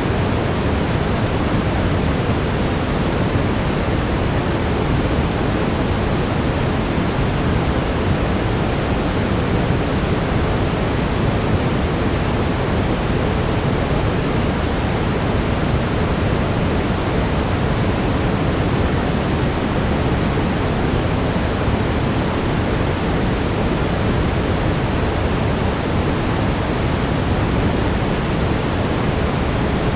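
Steady brown noise: an even, deep rushing hiss that is heaviest in the low end and does not change.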